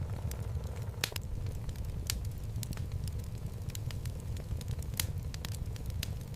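Wood fire burning in a fireplace: a steady low rumble of flames with irregular sharp crackles and pops from the logs, the loudest about a second in, two seconds in and five seconds in.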